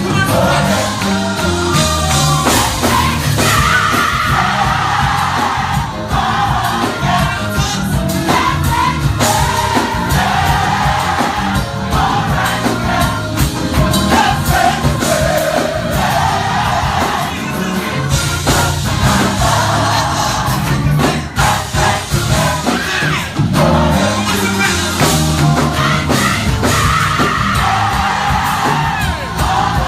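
Live gospel choir singing with band accompaniment, loud and continuous, the massed voices carrying the melody over a heavy low end and regular beats.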